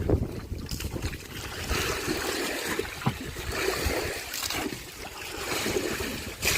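Water sloshing and splashing in uneven surges, with a few brief knocks.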